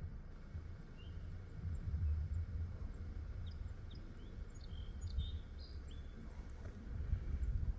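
Small birds chirping outdoors, with short high calls and quick sweeps scattered through, over a low, uneven rumble.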